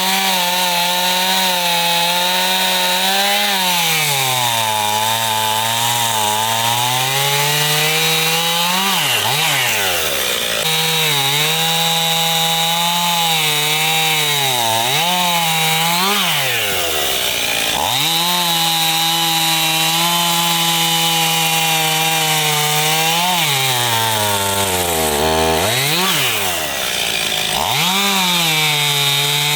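Chainsaw running at full throttle cutting firewood, its pitch sagging as the chain bogs down in the wood and climbing again as it frees up. Three times it drops briefly toward idle and revs back up.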